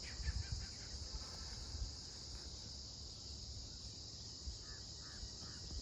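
Steady, high-pitched drone of a forest insect chorus, crickets or cicadas, over a low rumble, with a few short chirps, three of them near the end.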